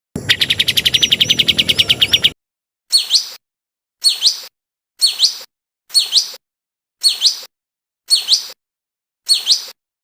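Recorded songbird calls of the kind compiled as masteran training song for cage birds. A fast trill of about a dozen notes a second runs for the first two seconds, then a short two-note call repeats about once a second, each note sweeping down in pitch, with dead silence between calls.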